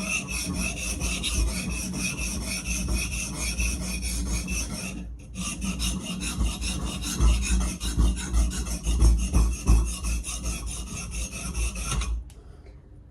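Steel cleaver blade scraping back and forth over a Sharpal diamond sharpening plate in a steady run of strokes, with a short break about five seconds in, stopping about a second before the end.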